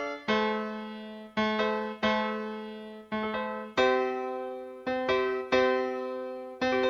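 Solo piano or electric piano playing slow, separate chords, each struck and left to fade.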